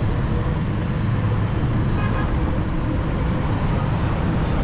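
Steady city street traffic noise, a continuous rumble of passing vehicles heard from a moving bicycle.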